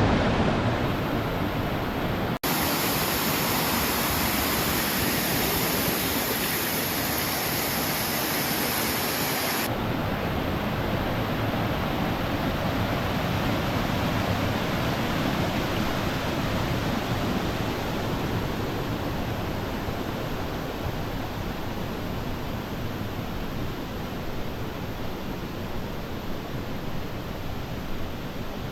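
Waterfall in flood after days of heavy rain, water pouring down in a steady rush. The sound changes abruptly twice, about two and a half and ten seconds in.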